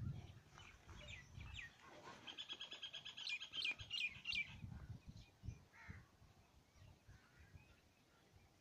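A bird calling a rapid run of high notes from about two seconds in to four and a half seconds in, over low rumbling noise during the first second and a half.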